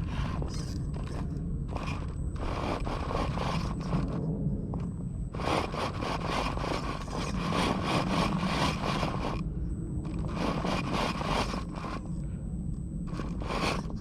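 Axial Capra 1/10-scale RC rock crawler's tyres scraping and crunching on boulder rock as it climbs a line, in irregular bursts with short pauses.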